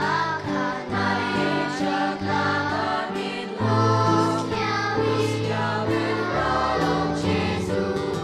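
A choir singing a Konkani Christmas carol with instrumental accompaniment, the voices moving over sustained low notes.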